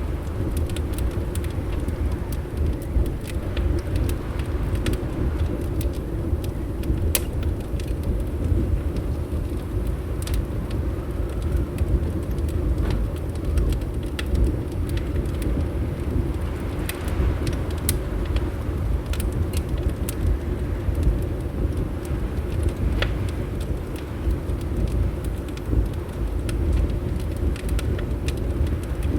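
Wood fire crackling in a fireplace, with sharp irregular pops, over a steady low rumble of wind.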